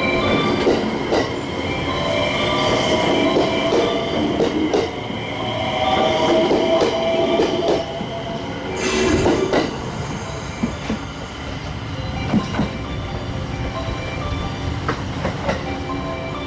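JR West 227 series electric train moving along the platform: its motors whine with steady high tones and slowly rising lower tones, and the wheels click over the rail joints. A brief burst of noise comes about nine seconds in.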